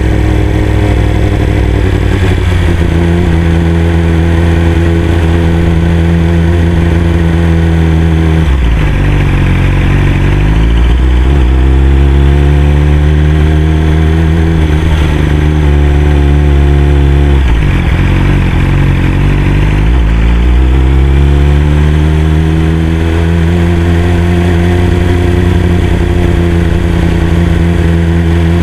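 Yamaha R6 inline-four engine running at low road speed, heard from the rider's seat. Its pitch drops sharply and then climbs back twice, about a third of the way in and again past halfway, as the throttle is rolled off and opened again.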